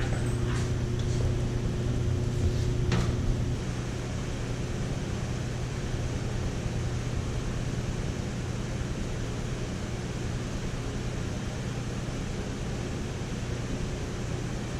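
Steady low machine hum, with a single sharp click about three seconds in.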